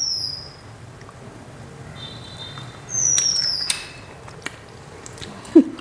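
A bird's high whistle falling in pitch, heard twice: once at the start and again, louder, about three seconds in. There are a few light clicks and a brief low sound near the end.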